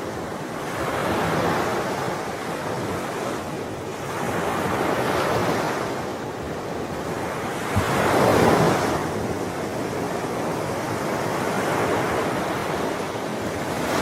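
Sea waves washing onto a shore, the surf swelling and ebbing every three to four seconds, with the loudest break about eight seconds in.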